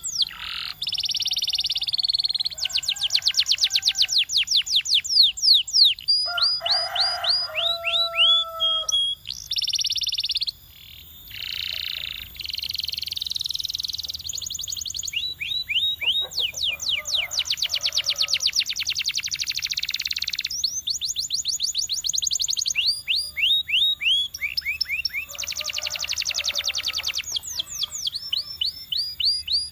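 Domestic canary singing a long continuous song of fast repeated notes and rattling trills, with a few lower, level whistled notes about a quarter of the way in.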